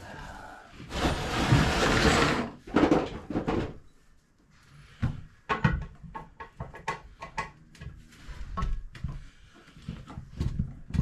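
A loud scraping rush of over a second near the start, then a run of sharp knocks and clicks: hands-on handling of parts and packaging while a new toilet is being set.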